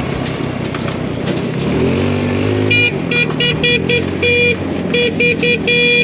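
Dune buggy engine running with a steady rumble over the ground, its note rising and then falling about two seconds in. After that a horn honks in a quick run of short beeps and a few longer blasts.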